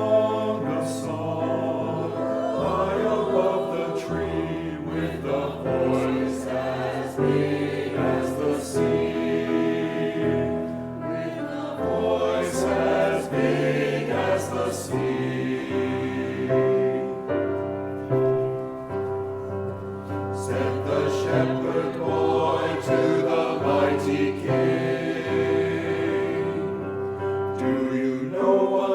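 Church choir singing a Christmas anthem with held, sustained chords over a moving bass line.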